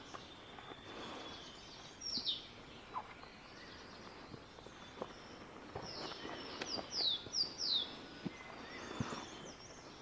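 A songbird calling from the forest canopy in short, high, downward-sweeping notes: a single one about two seconds in, then a quick run of four about seven seconds in, over a faint outdoor background.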